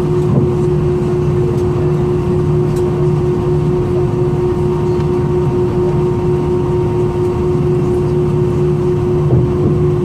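Steady cabin noise inside an Airbus A320 with its engines at idle before takeoff: a constant low hum under a steady whine.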